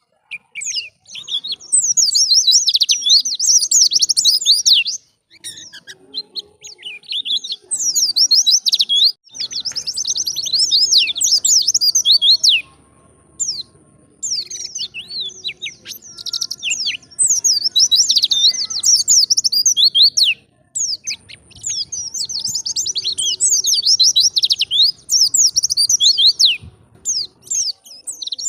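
White-eye (pleci) singing a fast, twittering song of rapid high chirps, delivered in long phrases that break off for short pauses about a second long.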